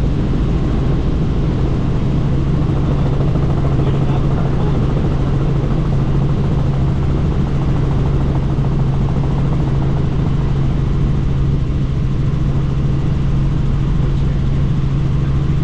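Helicopter in flight heard from the cabin with the doors off: a steady, loud drone of rotors and engine with a constant low hum, mixed with wind noise.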